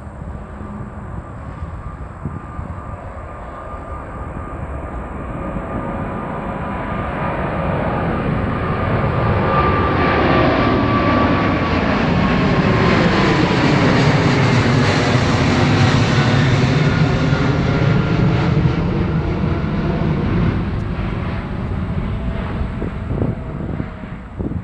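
A jet airliner passing close by: its engine noise builds to a peak in the middle and then fades, with whining tones that slide down in pitch as it goes past.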